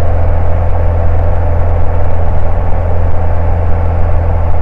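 Steady cabin drone of a single-engine Cessna Cardinal in cruise flight: piston engine and propeller making a constant low hum that holds the same pitch throughout.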